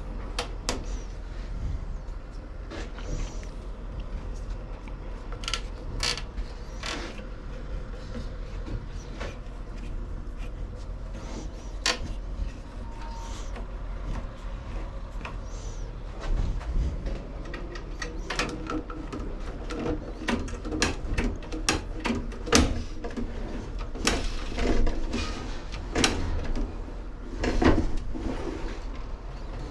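Hands-on repair work on a lawnmower's self-propel drive: scattered clicks and knocks of parts and tools being handled, coming more often in the second half, over a low steady hum.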